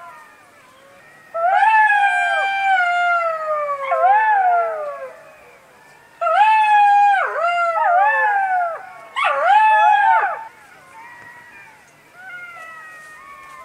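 A chorus of jackals howling: several overlapping wailing calls that slide down in pitch, some with quick dips and breaks. Three loud bouts come in turn, with fainter howls behind them.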